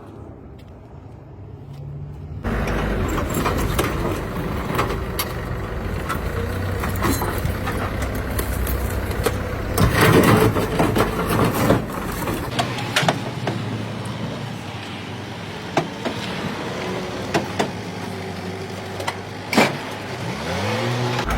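A motor vehicle's engine running, coming in abruptly about two seconds in, with scattered knocks and clanks over it and the revs rising near the end.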